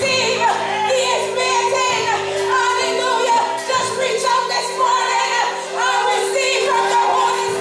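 Gospel music: singing voices over held, steady chords from an instrumental backing.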